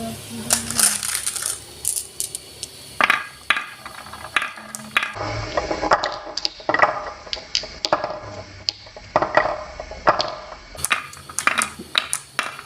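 Marbles rolling and clacking down a marble run track: a long run of irregular sharp clicks and knocks as they hit the track and each other.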